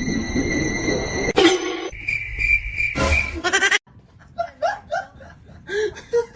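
Animal calls over a noisy background, cutting off abruptly about four seconds in, after which softer calls follow.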